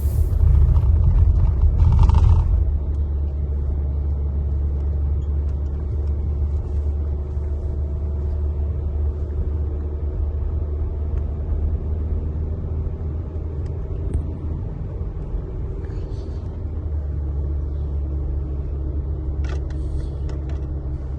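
Car driving, heard from inside the cabin: a steady low rumble of engine and road, a little louder in the first couple of seconds.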